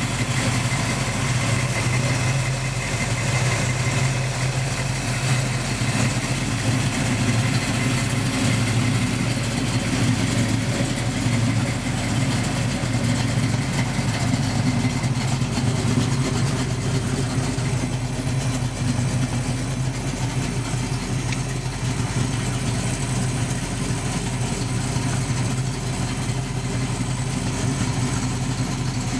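1973 Plymouth Barracuda's engine idling steadily.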